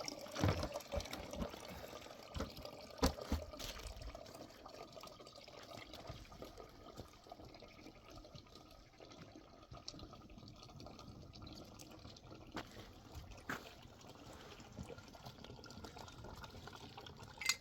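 A thin stream of water trickling and pouring, with a few light knocks.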